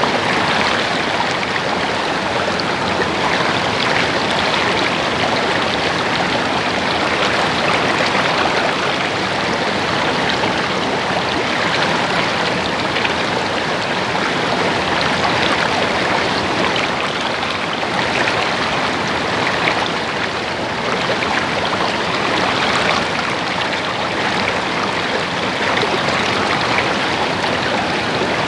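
Flowing water babbling steadily, an even rushing sound with no pauses.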